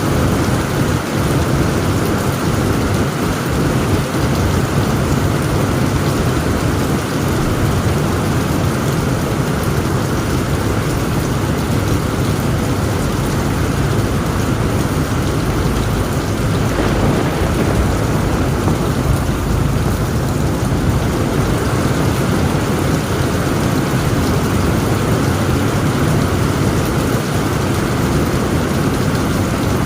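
Heavy rain on a tent roof, a steady dense patter over a continuous low thunder rumble, with no single sharp crack.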